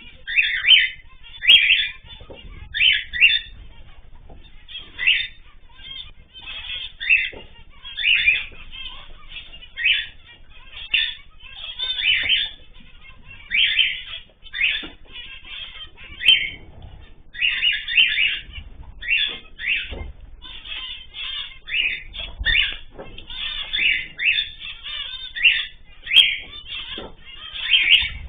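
Cage birds calling, short chirps repeating about once or twice a second.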